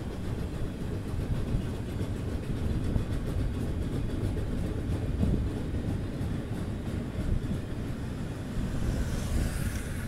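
Freight train of loaded double-deck car-carrier wagons rolling slowly past: a steady low rumble of wheels on rail. A brief higher-pitched rushing noise rises near the end.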